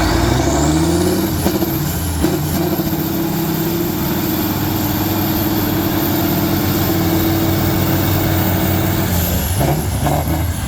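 A competition trial truck's engine revs up over the first second or so and is held at high revs under load, with a high whine rising and falling with it, then eases off near the end.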